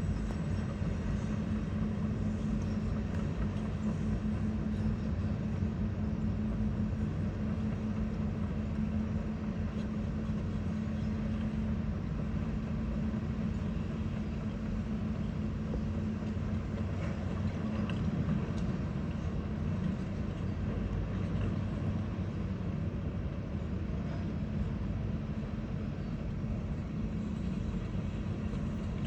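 Heavy construction machinery engine running steadily at a constant pitch, a low, even hum with no change in speed.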